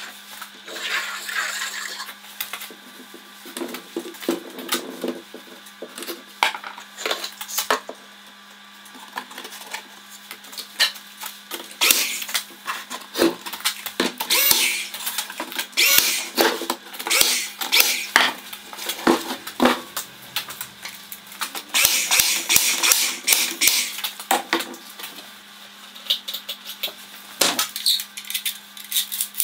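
Workshop noise: irregular knocks, taps and clatter of tools and work pieces, with short noisy bursts of a power tool, over a steady hum.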